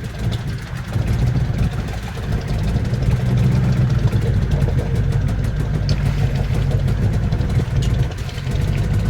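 Boat engine running steadily, a low hum.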